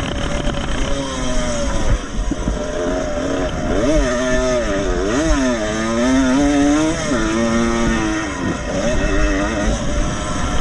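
Vintage two-stroke motocross motorcycle engine revving hard, its pitch rising and falling over and over as the throttle opens and closes, with a few deep drops in pitch near the middle.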